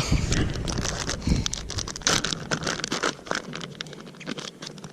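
Irregular rustling and clicking of fishing gear being handled and rummaged through, busiest in the first half and thinning out toward the end.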